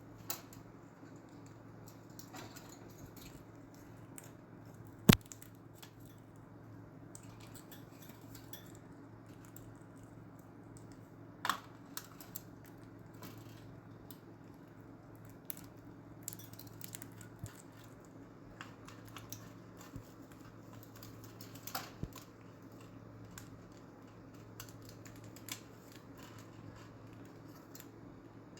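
Scattered light clicks and taps over a steady low hum, with one sharp, loud click about five seconds in.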